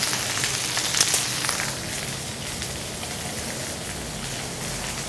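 Chicken pieces sizzling in hot oil in a large paella pan over a gas burner, with a few sharp crackles about a second in; the sizzle softens after about two seconds.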